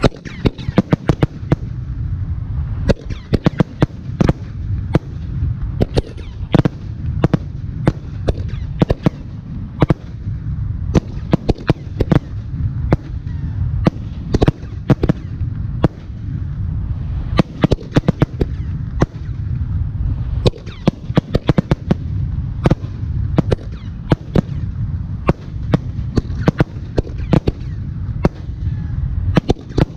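Aerial firework shells bursting in rapid, overlapping succession: dozens of sharp reports, several a second, over a continuous low rumble.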